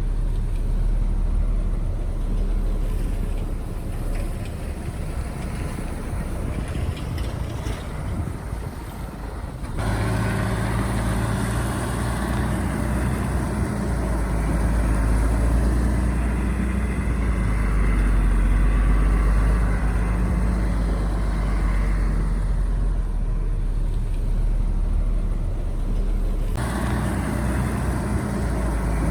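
Diesel engine of heavy earthmoving equipment running with a deep, steady drone. The sound changes abruptly about a third of the way in and again near the end.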